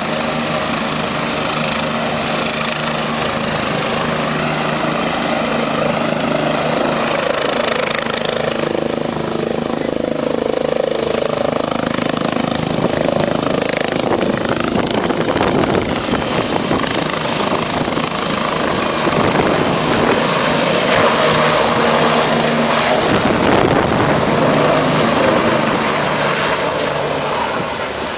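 Helicopter running with a steady engine and rotor noise. It grows louder in the second half and eases off near the end.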